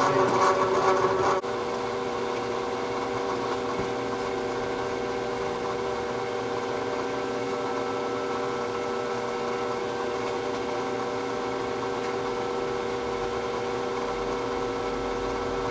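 Bridgeport milling machine running steadily, its spindle motor giving an even hum with several fixed tones. It is louder for the first second and a half, then drops suddenly and holds steady.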